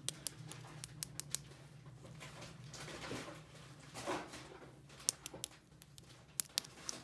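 Light, sharp clicks and taps of small plastic toy pieces being handled and set down, with a little rustling, over a low steady hum.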